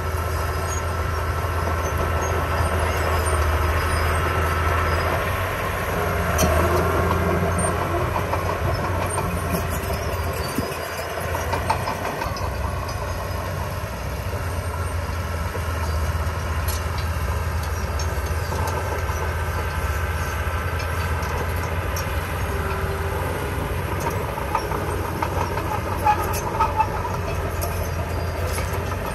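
Small bulldozer's diesel engine running steadily with a deep hum, with scattered light clanks and a couple of sharp knocks near the end.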